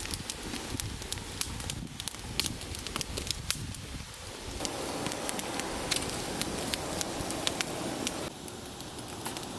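Wood fire crackling, with many small sharp pops and snaps over a steady rush of burning.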